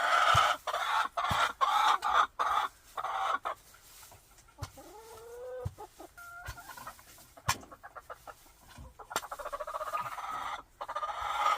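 Agitated hen squawking and clucking loudly in rapid bursts, with a drawn-out wavering call in the middle, and a few sharp clicks.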